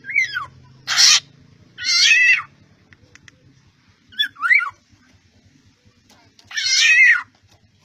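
A string of short, nasal, mewing animal calls. Thin cries that fall quickly in pitch alternate with longer, harsher rasping cries, about five calls with gaps of one to two seconds between them.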